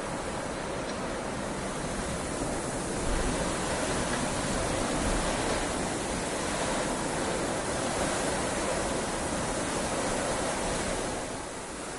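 Heavy rain falling steadily. It grows louder about three seconds in and eases slightly near the end.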